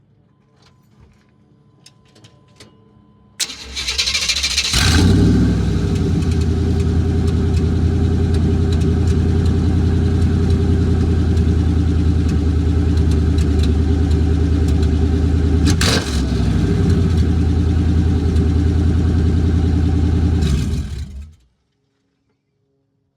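A pickup truck's engine running on open headers, with no muffler or exhaust system, cranked over about three seconds in and catching at once. It then idles loud and steady before being switched off, cutting out a couple of seconds before the end.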